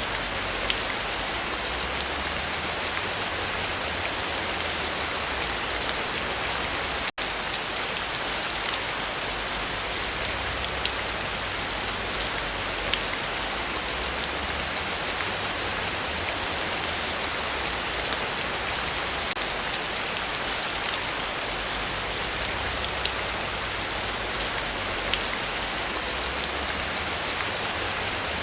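Heavy rain falling steadily, with scattered individual drop ticks over a dense hiss. The sound cuts out for an instant about seven seconds in.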